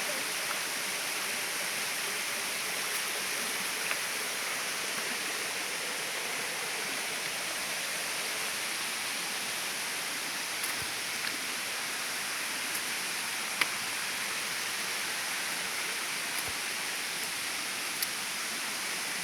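Steady rush of water from a waterfall, with a few light ticks now and then.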